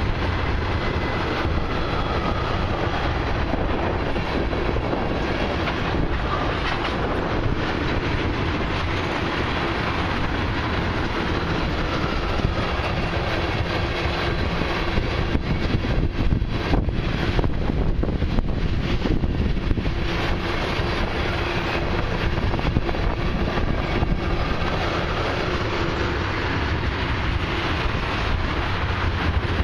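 Loaded ethanol tank cars of a long freight train rolling past, a steady rumble of steel wheels on the rails, with a run of sharper clicks a little past the middle.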